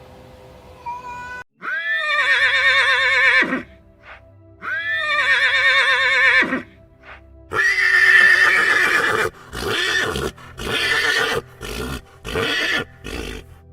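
Horse whinnying: two long neighs with a quavering, wavering pitch, then a harsher neigh and a run of about five short, rough calls near the end. Faint background music underneath.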